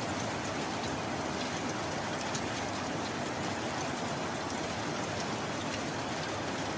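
Steady rain falling evenly, with scattered sharp drop ticks over a constant hiss.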